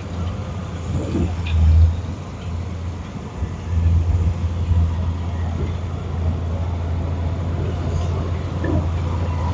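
Steady low rumble of motor vehicles, swelling briefly about a second in and again around four seconds in.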